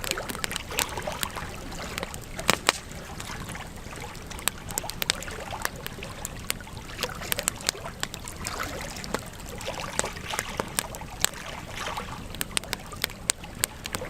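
Wood fire in a fireplace crackling, with frequent irregular sharp pops over a steady hiss; a pair of loud pops comes about two and a half seconds in.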